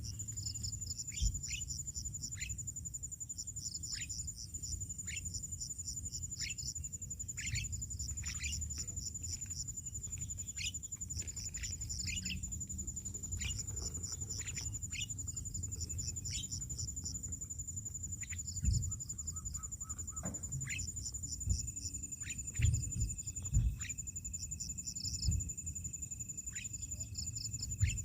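An insect trills steadily and high, with birds giving many short, sharp downward-sliding calls over it and a low rumble underneath. A few dull thumps come in the second half, the loudest sounds here.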